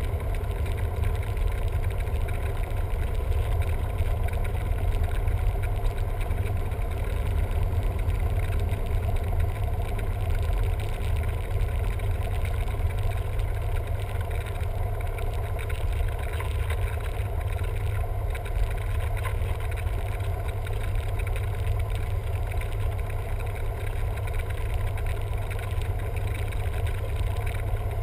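Cessna 172M's four-cylinder piston engine and propeller running steadily, a constant deep drone with no change in pitch.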